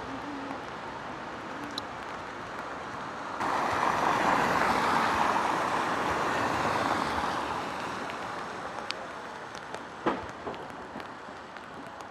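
Traffic on a rain-soaked street: a steady wet hiss, then about three seconds in a louder swish of tyres on the wet road starts abruptly and fades away over the next few seconds. A single sharp click comes near the end.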